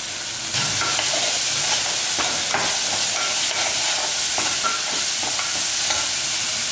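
Ginger-garlic paste, shallots and tomato sizzling in hot oil in an aluminium pressure cooker pot while a perforated metal skimmer ladle stirs them, with light scrapes and taps of the ladle against the pot. The sizzling grows louder about half a second in.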